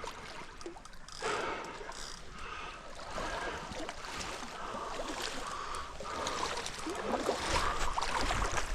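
Shallow creek water running and splashing, a steady rushing trickle with small splashes, and a low rumble near the end.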